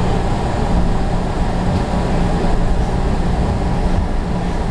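Steady low rumble of a train running, even and unbroken.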